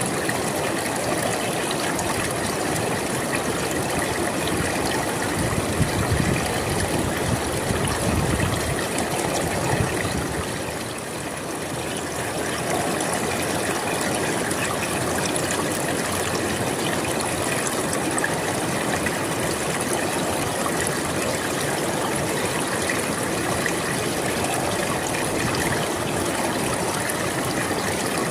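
River water flowing steadily over rocks, a continuous rushing and trickling, with a few heavier low surges about six to ten seconds in.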